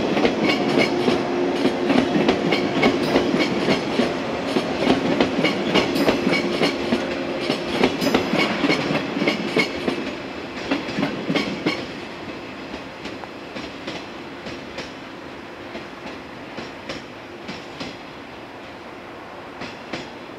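Yellow electric multiple unit train running past and away over jointed track, its wheels clicking in a steady rhythm over the rail joints. Loud at first with a steady hum under the clicks, it fades after about ten seconds as the train draws off.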